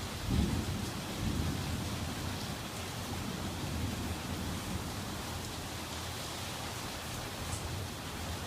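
Thunderstorm: steady rain with low rumbles of thunder, the loudest swell just after the start and another about a second in.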